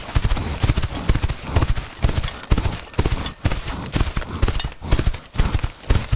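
Horse's hooves clopping in a steady, even rhythm, about two beats a second.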